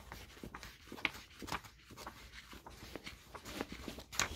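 Paper book pages being handled and flipped: a run of soft, irregular rustles and taps, a few of them sharper.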